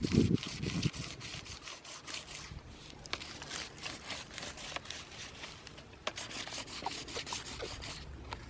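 Quick, repeated scratchy rubbing strokes on paper laid over a tree stump as a stump rubbing is made.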